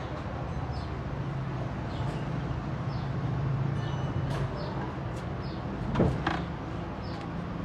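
A steady low mechanical hum, with one loud knock about six seconds in that rings briefly, and short high chirps of birds now and then.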